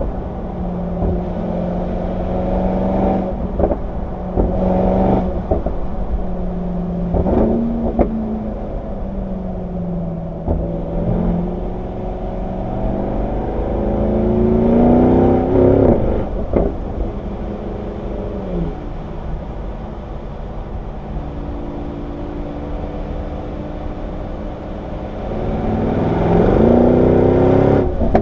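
Mercedes-AMG E63 S's twin-turbo V8 under hard acceleration, its pitch climbing and then dropping at each upshift, with strong rising pulls about halfway through and again near the end and a few short sharp cracks along the way.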